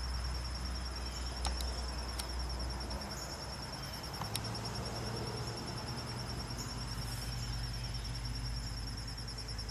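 Insects trilling steadily, a fast, even, pulsing high-pitched note that never breaks, over a low background rumble that shifts about three seconds in. A few faint clicks early on.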